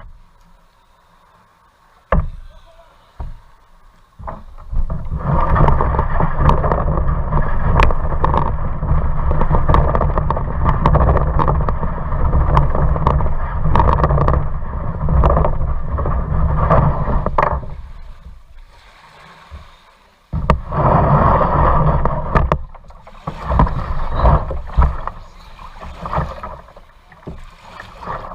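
Kayak being paddled: water splashing and paddle strokes with short knocks, in two long loud spells and then on and off, over a low rumbling noise.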